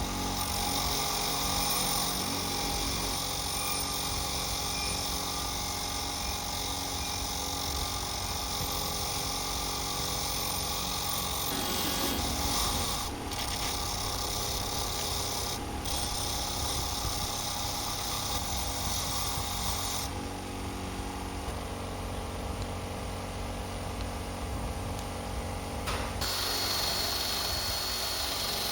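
A small electric power tool running steadily as it works on metal, with a few changes in tone along the way.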